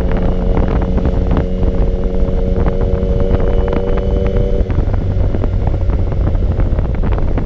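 Yamaha motorcycle riding, with its steady engine hum and heavy wind rumble on a helmet-mounted microphone; the engine hum drops away about four and a half seconds in while the wind rumble carries on.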